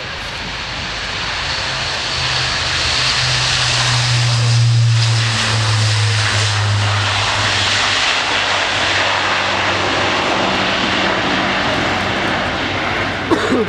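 Airbus A400M's four TP400 turboprop engines and eight-bladed propellers running on the runway, their low drone and roar building up over the first few seconds and then holding steady. A brief knock near the end.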